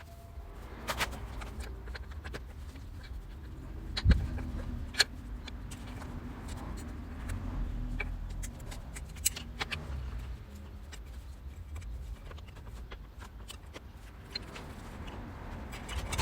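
Scattered small clicks and knocks of hand work with tools and parts, the sharpest about four and five seconds in, over a low steady rumble.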